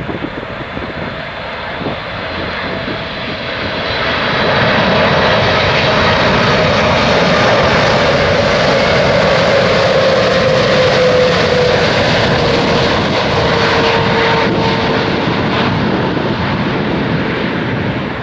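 Boeing 747-8's four GEnx turbofan engines on final approach, passing the listener: the engine noise swells about four seconds in and holds loud, with a whine that falls steadily in pitch as the jet goes by.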